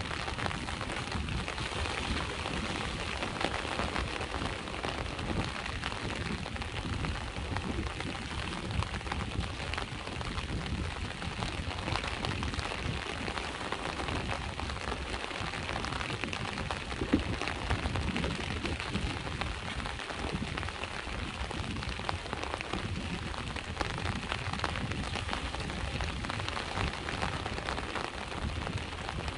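Steady rain falling, with sea waves washing on the shore beneath it. There is one sharper tap a little past halfway.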